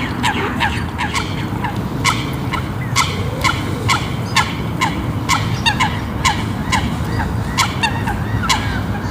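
Waterfowl on a lake calling: a fast run of short, slightly falling calls, about two a second, over a steady low background noise.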